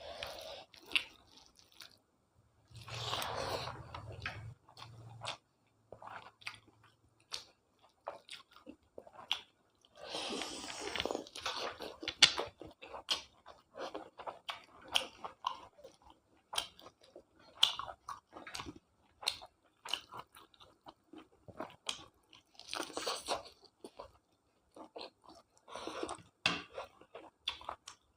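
A person chewing and biting food close to the microphone: a steady run of wet mouth clicks and smacks with crunching.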